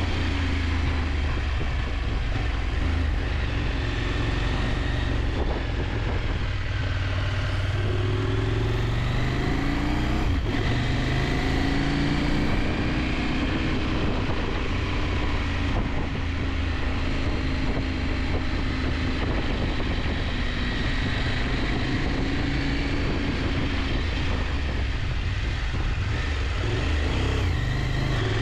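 KTM 890 Adventure's parallel-twin engine running on the road, its pitch rising and falling several times with throttle and gear changes, over a steady rush of wind noise.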